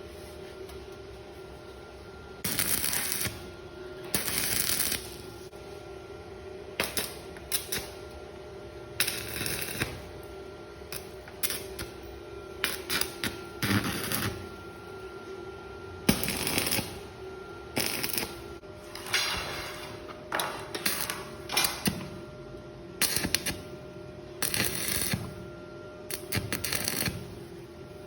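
Stick-welding arc crackling in short bursts of about a second, struck again and again as tack welds are laid on angle iron, over a steady hum.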